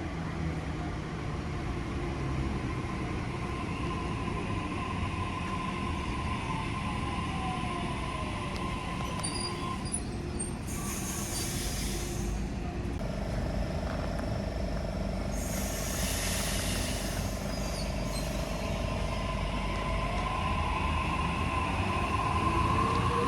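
Electric suburban train at the platform. Air hisses out twice in two-second stretches from its pneumatic brakes or doors, over a steady motor and inverter hum. Near the end a whine rises in pitch as the train draws away.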